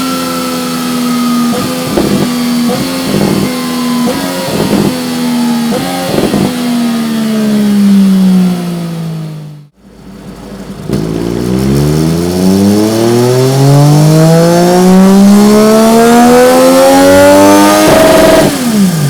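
Triumph Street Triple 765 RS inline three-cylinder engine through an aftermarket Dominator exhaust on a motorcycle dyno. In the first half the revs wind down with a series of pops from the exhaust on the overrun, falling faster near the end of the run. After a short break the engine pulls under full load in one long steady climb in revs, then the throttle is shut and the revs drop sharply near the end.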